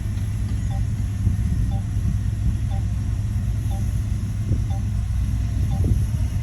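Shantui bulldozer's diesel engine running with a steady heavy rumble, with a faint short beep about once a second.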